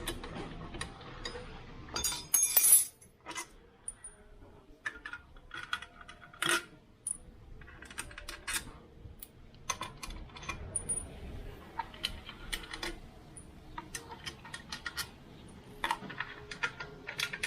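Hand tools undoing the bolts of a Honda Click 150i scooter's CVT side cover: scattered metallic clicks and clinks of a ratchet, socket and loose bolts, with one louder, brief rattle about two seconds in.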